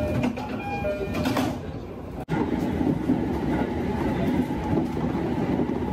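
Commuter train interior: an alternating two-note electronic chime, typical of the door-closing chime, sounds while the train stands at the station. About two seconds in the sound cuts off suddenly and gives way to steady running noise of the train moving along the track, heard from inside the carriage.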